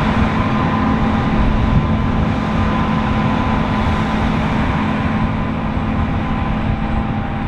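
Large diesel farm machinery running steadily: a dense mechanical drone with a steady low hum and a fainter, higher steady whine.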